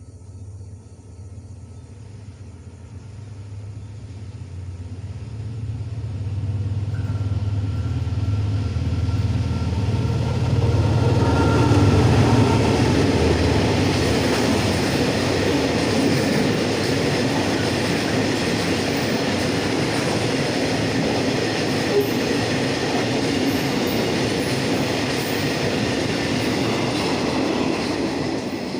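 A train passing close by: a low engine drone as it approaches, swelling into a loud, steady rumble and clatter of wheels on the rails as the cars roll past.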